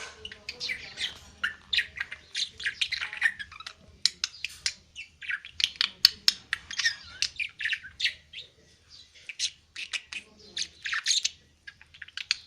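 Pet budgerigar chattering: a rapid, continual run of short chirps and squawks.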